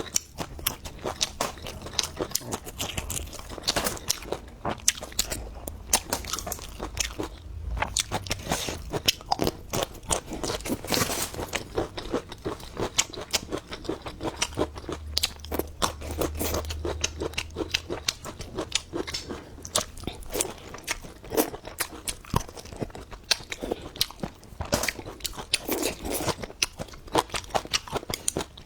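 Close-miked chewing and biting of crisp food, a dense run of sharp crunches, several a second, with wet mouth sounds in between.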